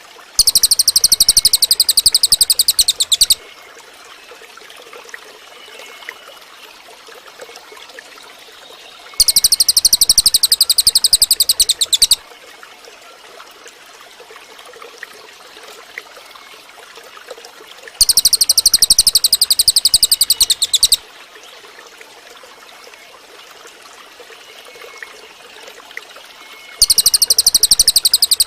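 Cililin bird singing a loud, high, rapid trill about three seconds long, four times at roughly nine-second intervals, with the last one still going at the end. Between the phrases a steady trickle of water runs underneath.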